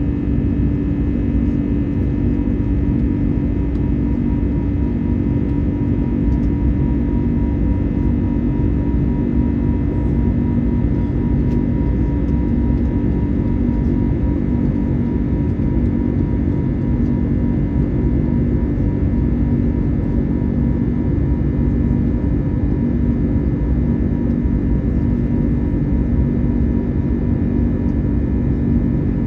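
Cabin noise inside an Airbus A321neo in flight: a steady rumble of engines and airflow with a constant low hum, unchanging throughout.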